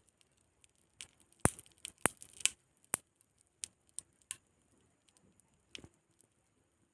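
Old electric iron's heating coil, on mains power, giving off irregular sharp crackles and pops, thickest in the first half. The repairer puts the noise, along with smoke and a burning smell, down to the asbestos insulation around the coil heating and burning.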